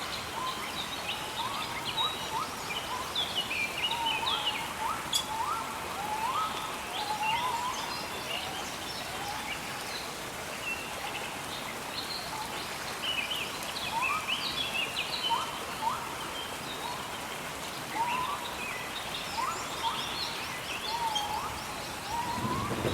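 Several birds singing, with repeated short upward-sweeping notes and higher chirps, over the steady hiss of gentle rain. A low rumble begins at the very end.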